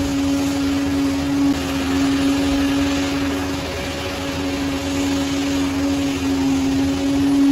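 Bulldozer's diesel engine running steadily under work, with a constant whine held at one pitch over a low rumble.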